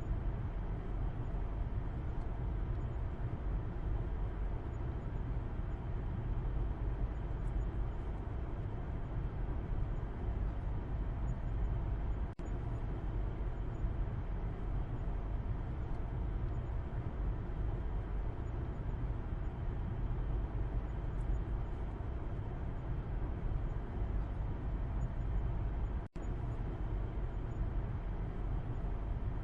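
Steady low road and engine drone of a moving car, heard from inside the cabin in the back seat. It cuts out for a split second twice, about twelve seconds in and again near the end.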